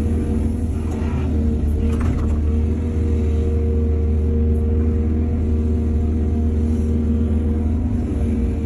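Heavy diesel engine of an excavator running steadily with a low rumble, with two short noises about one and two seconds in, typical of digging or loading work.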